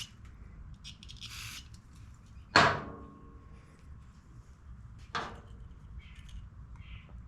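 Bench work on a small-engine carburetor: a short spray hiss, then a sharp metallic clink with a brief ring as a tool or part is set down, and a second, lighter clink a few seconds later.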